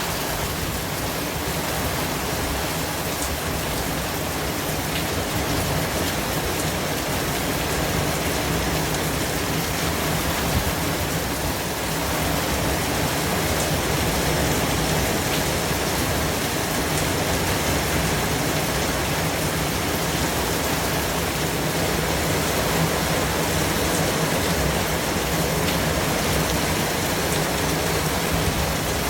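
Steady white noise: an even hiss spread across the whole range of pitch, becoming slightly louder about twelve seconds in.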